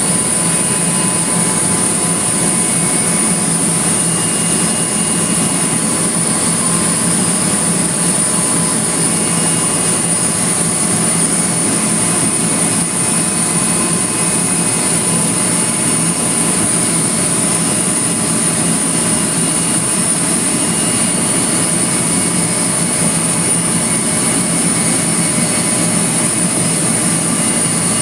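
A loud, steady mechanical drone with a constant low hum and a high hiss, unchanging throughout.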